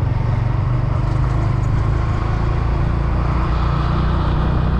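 Honda CB150 Verza's single-cylinder engine running steadily while the motorcycle is ridden slowly, heard from the rider's position.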